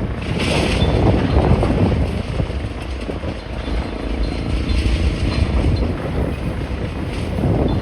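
Wind buffeting the microphone in uneven gusts, a heavy low rumble that swells and dips.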